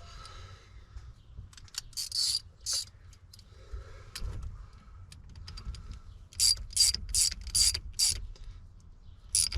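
Socket ratchet wrench worked in short strokes, each stroke giving a burst of ratcheting clicks, as a 7/16-inch fastener is run down tight. A few strokes come about two seconds in, then a quicker run of about six strokes from six and a half to eight seconds, and one more near the end.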